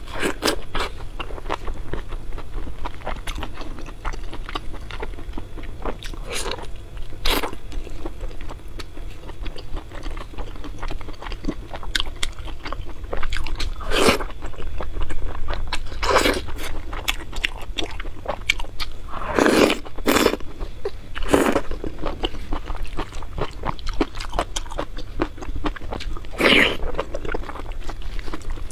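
Close-miked chewing and biting: a steady patter of wet mouth clicks and crunches, with several louder, sharper bites every few seconds.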